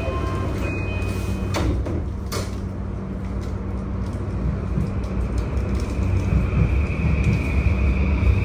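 Sliding doors of a JR East E235-series commuter train closing, with two knocks as they shut about one and a half and two and a third seconds in, just after a held tone stops. From about halfway through, the Mitsubishi full-SiC VVVF inverter begins to whine as the train starts off, a slowly rising tone over the car's steady low rumble.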